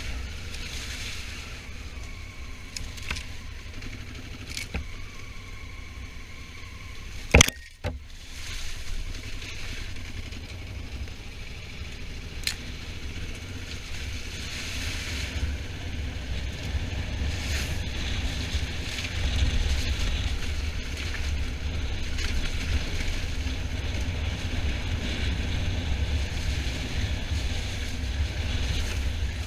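Honda Africa Twin motorcycle on the move: a steady low rumble of wind buffeting the microphone over the bike's running noise, with a sharp click about seven seconds in. The rush grows louder about two-thirds of the way through as speed picks up.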